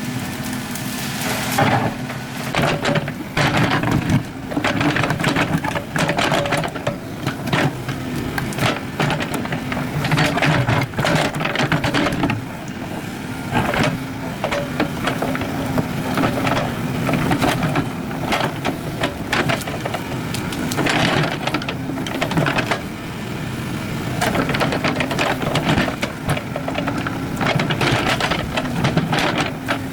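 Excavator engine running steadily under working load, with repeated irregular clanks and scrapes from the machine at work.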